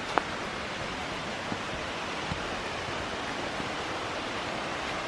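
Steady rushing of falling water from a waterfall, with one sharp click just after the start and a few faint soft knocks.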